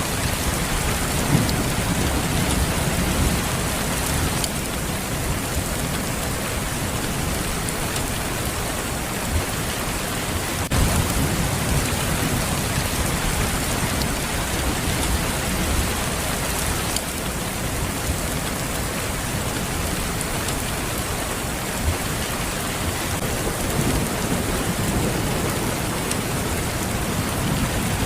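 Steady heavy rain with low rolls of thunder swelling up three times: at the start, about eleven seconds in, and near the end.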